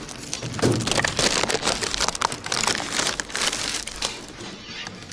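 Supermarket ambience: a dense, continuous crackling and rustling, like packaging or a plastic bag being handled, with a faint low murmur underneath.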